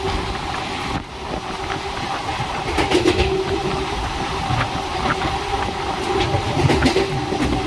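Passenger train running on the rails: a steady rumble and hum, with the clickety-clack of wheels over rail joints and a few sharp clatters about three seconds in and again near the end.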